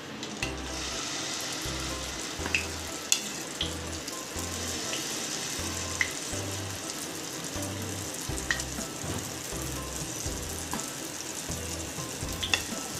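Malpua batter frying in hot ghee in a pan: a steady sizzle that starts about half a second in, with a few sharp pops and spatters.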